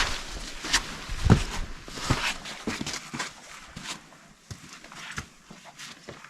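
A hiker's footsteps: an uneven run of steps and scuffs, stronger through the first two seconds or so and fainter after.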